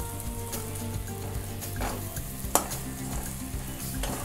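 Onion-tomato masala sizzling with butter in a kadhai as a metal spatula stirs and scrapes it around the pan, with one sharp knock of the spatula about two and a half seconds in.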